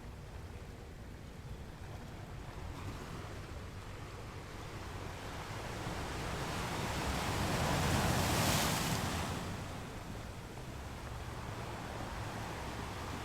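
Ocean waves washing onto the shore, with one wave building about six seconds in, peaking as it breaks and washes up, then falling away to the steady background surf.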